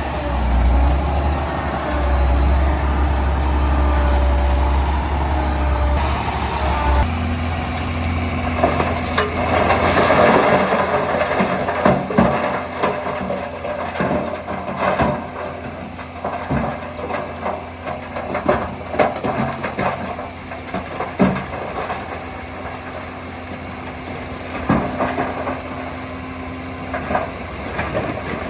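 Heavy diesel engine of earthmoving machinery running. About seven seconds in the sound changes abruptly to a steadier engine tone with scattered knocks and clanks.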